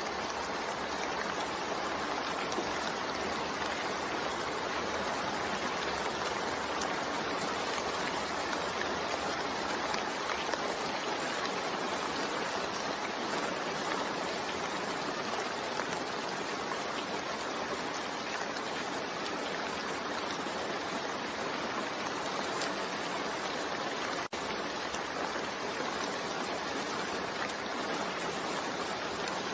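Steady rain falling, an even hiss of water with no let-up, with a momentary dip in level about 24 seconds in.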